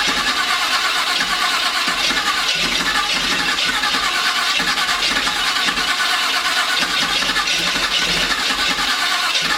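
Chevy C10 engine, newly fitted with a fresh camshaft, cranking over on the starter and trying to fire on its first start attempt in two years. It sounds like it is trying to catch but is not yet running cleanly.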